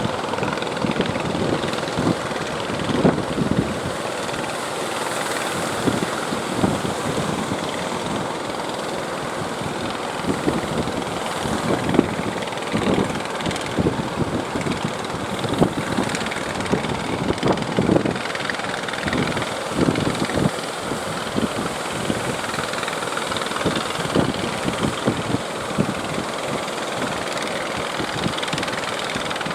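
Strong wind buffeting the microphone in irregular gusts over a steady rushing noise.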